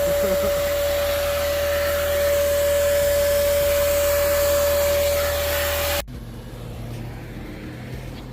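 Vacuum cleaner running with a steady whine, switched off abruptly about six seconds in.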